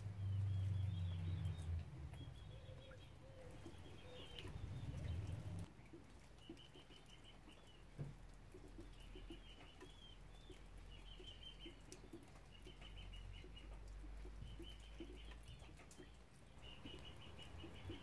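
A bird calling: short chirping trills repeated every second or so. A low rumble dies away in the first six seconds.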